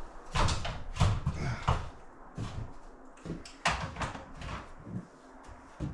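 A series of irregular wooden knocks and thumps, loudest in the first two seconds, from ceiling trim boards being handled and fixed in place.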